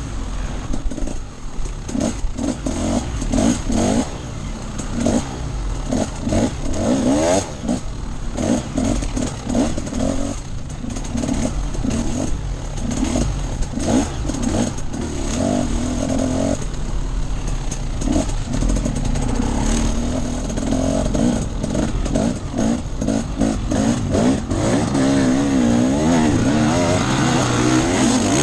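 Enduro dirt bike engine ridden off-road, the throttle opened and shut over and over so the revs rise and fall every second or so, then held higher and steadier near the end, with wind rumble on the microphone.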